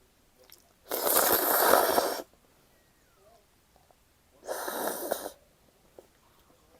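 Two loud slurps of cold buckwheat soba noodles, the first lasting about a second, the second shorter, about three seconds later, with faint mouth clicks between.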